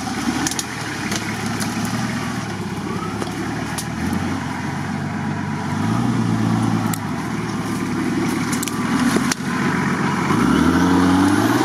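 Off-road 4x4 engines running in mud, one revving up with a rising pitch about halfway through and again near the end.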